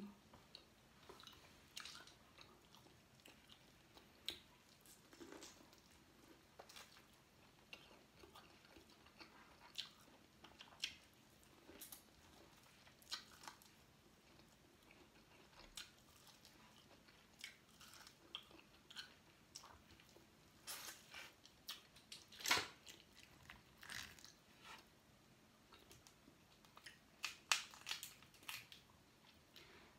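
Faint close-up chewing and mouth sounds of someone eating seafood, with scattered small clicks and crackles as shells are picked apart by hand; the sharpest click comes a little past two-thirds of the way through.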